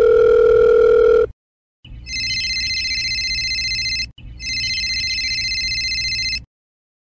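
Telephone call sound effect: a steady phone tone for about a second, then a phone ringing in two long trilling rings with a short break between them.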